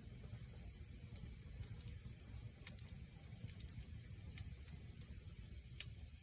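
Wood fire burning with a steady low rumble and hiss, and sharp, irregular crackles and pops of burning wood, the loudest pop near the end.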